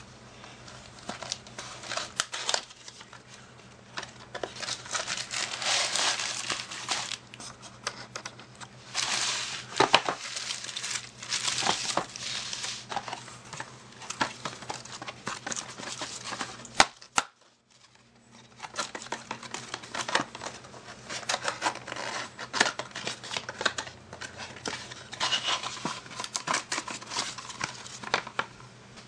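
Handling noise: crinkling and rustling with many sharp small taps and clicks, dropping out for about a second just past halfway.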